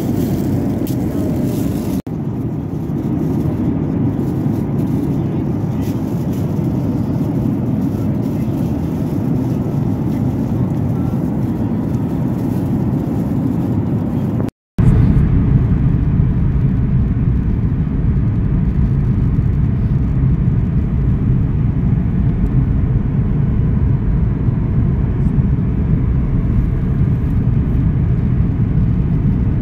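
Steady low rumble heard inside a vehicle, with two abrupt breaks: a short dip about two seconds in and a brief dropout near the middle, after which the rumble is deeper and louder.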